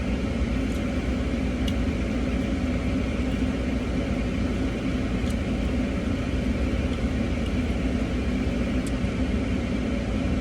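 Steady low hum inside a car's cabin from the engine idling and the ventilation running, with a few faint clicks.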